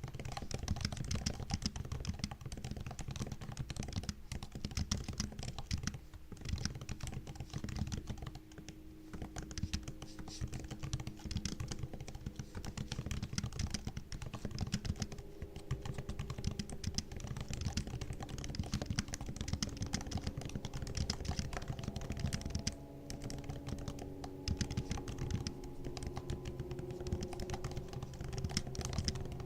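Continuous typing on a MacBook's laptop keyboard: a dense run of soft key clicks and taps, with a couple of brief pauses.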